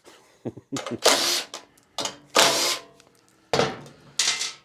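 A handheld power tool run in three short bursts, as parts come off a snowblower's carburettor, with small clicks between the bursts.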